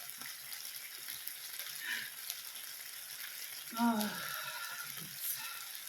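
Chicken kebabs sizzling steadily on a hot indoor grill, an even high hiss of frying.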